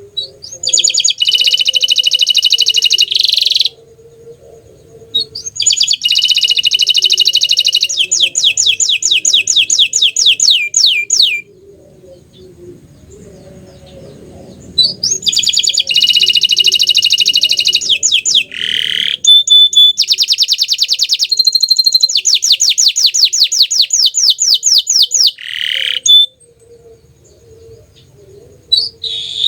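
Domestic canary of the bottle-green colour variety singing loud, high-pitched song phrases of fast trilled notes, each phrase lasting a few seconds and broken by short pauses.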